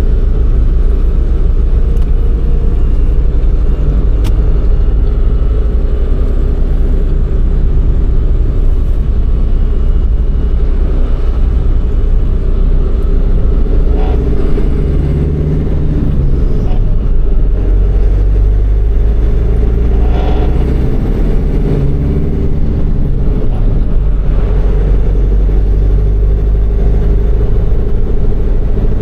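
MAN truck's diesel engine running under way, heard from the cab, a steady low drone whose pitch rises and falls around the middle and again about two-thirds of the way through as the engine speed changes.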